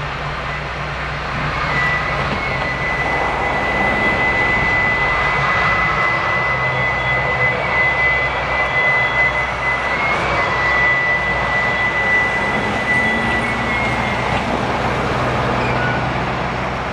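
Slow-moving passenger train of business cars rolling along a wye, with a low steady engine drone beneath the rumble of the cars. A thin, steady high-pitched squeal, typical of wheel flanges on the curve, starts about two seconds in and dies away near the end.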